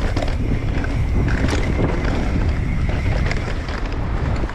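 Wind buffeting the camera microphone as a mountain bike rides fast down a dirt trail, with the tyres rolling over the ground and the bike rattling in short clicks and knocks.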